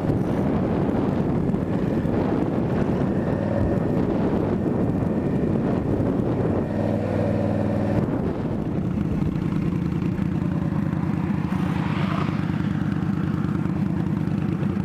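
Indian Scout Bobber's V-twin engine running while riding, with road and wind noise. About seven seconds in the engine note turns clearer and steadier, and it holds as a steady drone through the rest.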